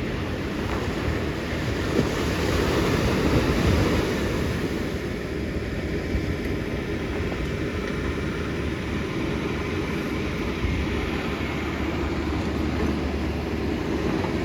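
Ocean surf washing and breaking on the beach, a steady rush that swells a little a few seconds in, with wind buffeting the microphone.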